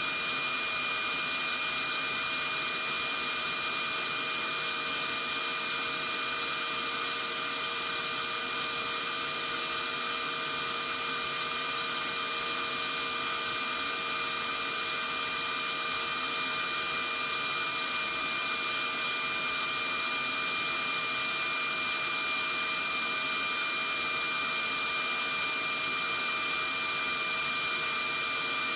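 Vacuum cleaner running steadily: an even rushing noise with a constant high-pitched whine, unchanging throughout.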